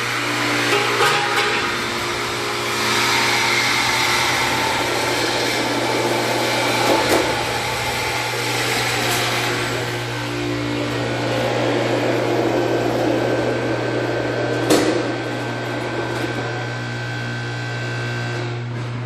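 A power tool runs steadily, cutting through a car's exhaust pipe, with a few sharp knocks, the loudest near the end.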